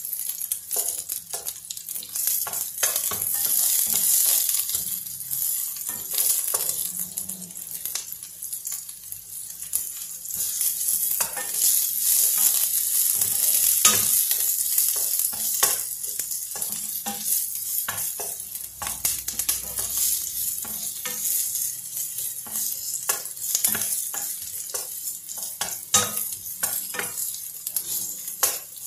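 Sliced onions sizzling as they fry in a non-stick frying pan, stirred with a wooden spoon that knocks and scrapes against the pan in many short clicks over a steady hiss.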